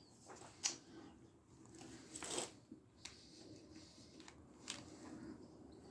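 Faint scattered handling noises: a soft click, a brief rustle about two seconds in, and another click near the end.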